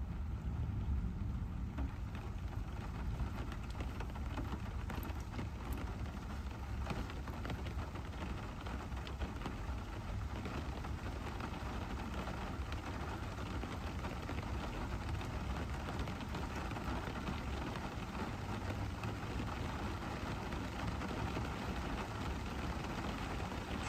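Rain striking a moving car as many small scattered drop hits, over the steady low rumble of the car driving.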